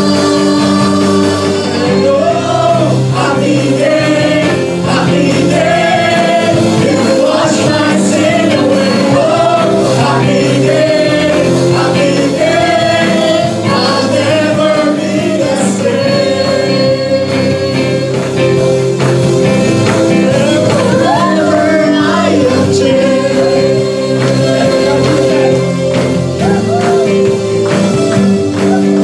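Gospel worship song: voices singing over steady held instrumental chords.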